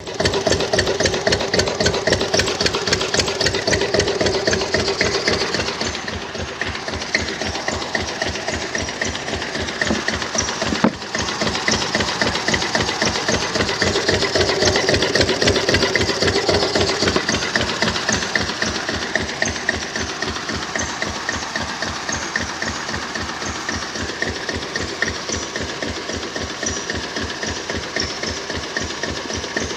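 An engine running at a steady idle after starting, with an even, rapid firing beat. It drops a little in level about six seconds in, and there is a single sharp click about eleven seconds in.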